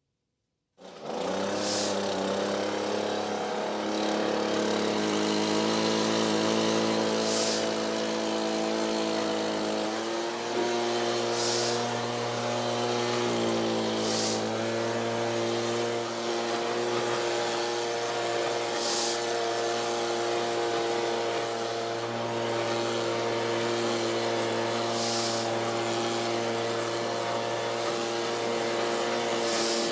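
A vehicle engine running steadily, its pitch shifting a few times in the first fifteen seconds, with a brief hiss every few seconds.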